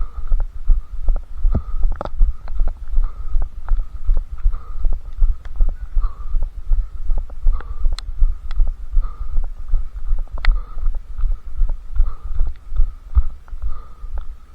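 Running footfalls, a steady low thud about three times a second, picked up through a head-strapped camera jolting with each stride, with a few sharp clicks.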